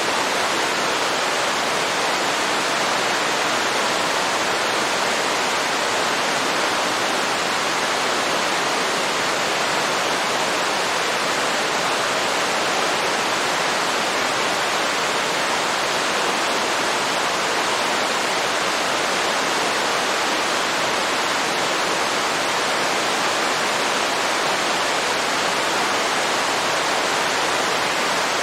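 A waterfall: water pouring and splashing in a steady, unchanging rush.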